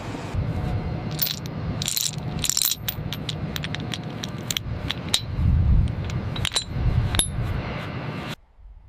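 A run of sharp, irregular metallic clinks and rattles over a steady low rumble, which cuts off suddenly shortly before the end.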